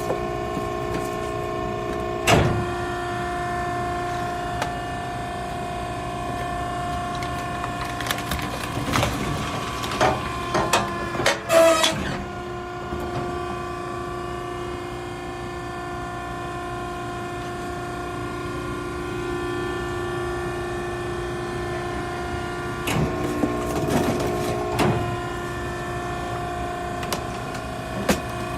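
Maren cardboard baler's hydraulic power unit running with a steady multi-toned hum, broken by sharp knocks and clatters of cardboard and metal about two seconds in, in a cluster between about eight and twelve seconds, and again near the end.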